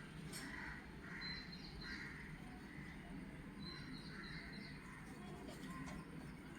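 Birds calling: repeated harsh calls and two short runs of quick high chirps, over a steady low hum.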